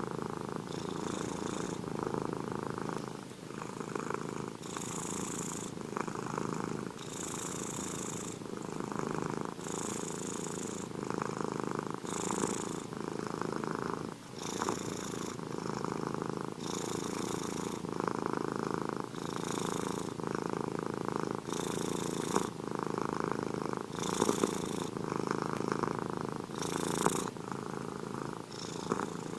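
Domestic cat purring continuously, the purr changing in a regular rhythm with each in- and out-breath, about every two and a half seconds.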